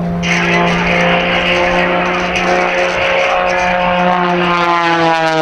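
Propeller engine of the Oracle Challenger III aerobatic biplane running at high power as it flies past. Its pitch holds steady, then falls near the end as the plane goes by.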